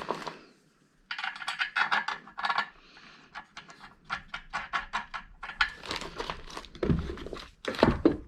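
Small metal nuts and hardware being handled, giving quick runs of light metallic clicks and rattles. Two heavier knocks come near the end.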